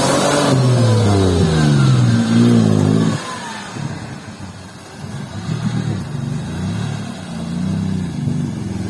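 Off-road vehicle engine revving hard, its pitch sliding down over about three seconds, then the revs dropping suddenly to a quieter, uneven lower running.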